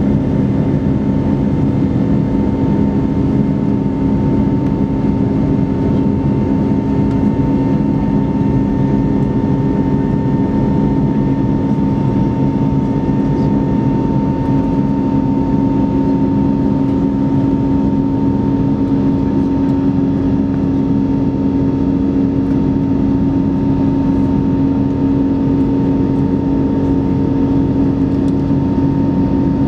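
Airbus A321neoLR's Pratt & Whitney PW1100G geared turbofan engines and airflow heard from inside the cabin in flight: a steady, loud drone with a low hum and a higher steady tone over it.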